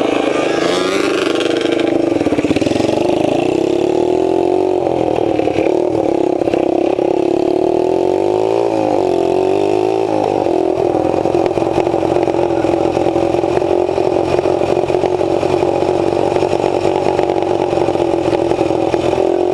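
Small dirt bike engines running while riding, revving up and down through the first half, then holding a steady speed.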